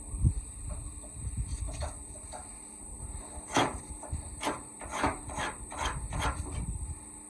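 A hand tool scraping in a series of short strokes, about six of them in the second half, over a low steady rumble.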